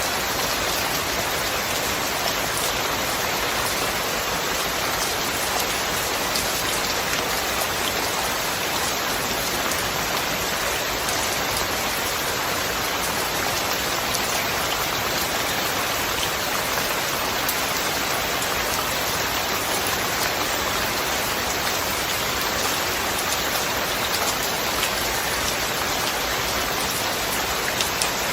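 Steady rain falling: an even hiss with scattered ticks of individual drops, unchanging throughout.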